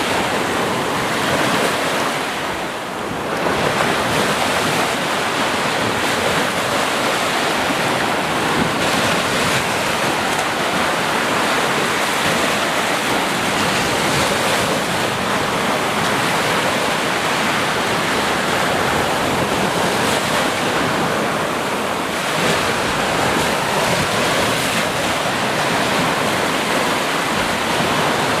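Sea waves breaking and washing in a steady, dense rush of surf, easing briefly about three seconds in and swelling back.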